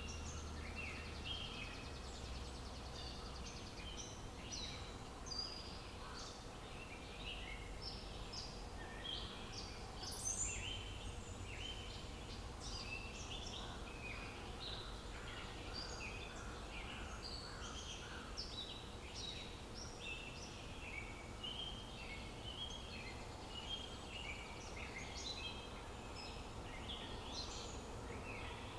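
A chorus of songbirds chirping continuously, with many short overlapping calls, over a steady low outdoor rumble.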